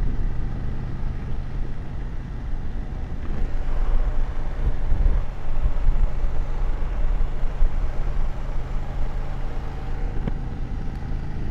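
BMW F750GS motorcycle's parallel-twin engine running steadily on the move, under an even haze of wind and road noise.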